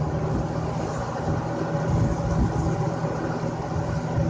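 1990s Lasko 20-inch box fan running on high: a steady rush of air over a low motor hum.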